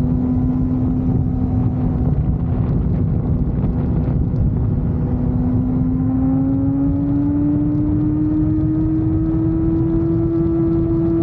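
Motorcycle engine running steadily under way, its pitch climbing slowly from about halfway as it speeds up, over a low steady rumble.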